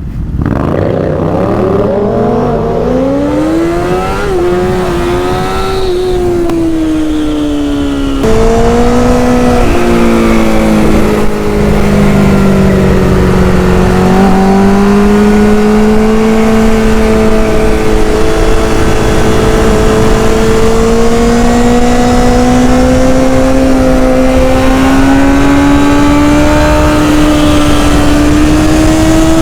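Honda CBR1000RR sportbike's inline-four engine under hard acceleration: the pitch climbs over the first few seconds, breaks and drops at a gear change about eight seconds in, then holds high and slowly rises again, with wind rushing past.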